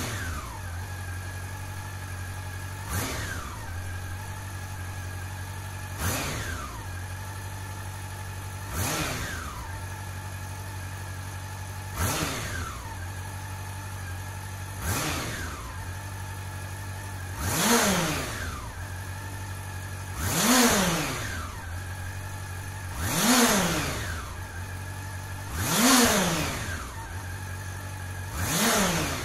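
Honda CB400 Super Four Revo (NC42) inline-four engine through its stock muffler, idling steadily between throttle blips about every three seconds. The first several blips are short; the last five, from about halfway in, are bigger revs that climb and fall back to idle.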